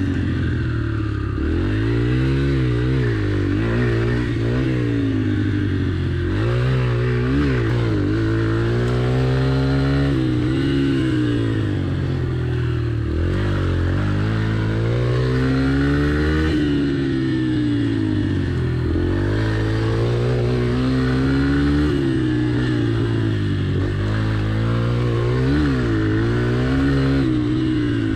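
Yamaha TT-R pit bike's single-cylinder four-stroke engine revving up and falling back again and again, the pitch rising and dropping every couple of seconds as the bike is ridden through a run of tight turns.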